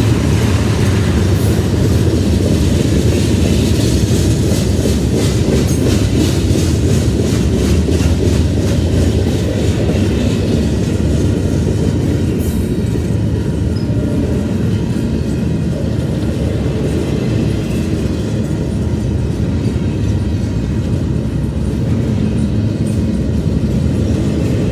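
Mixed intermodal freight train cars rolling past with a steady low rumble and the clickety-clack of wheels over rail joints, the clicks coming thick and regular through the first half.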